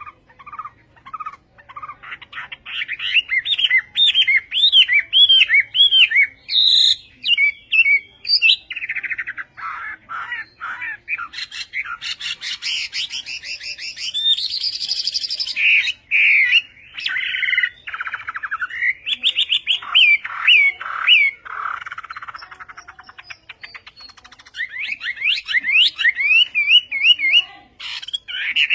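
Chinese hwamei singing a long, varied song: loud whistled phrases of quickly repeated up-and-down notes and trills, broken by short pauses.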